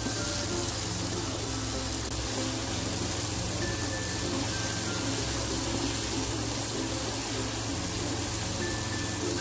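Ground spice paste sizzling steadily as it is sautéed in hot oil in a wok while being stirred, under soft background music.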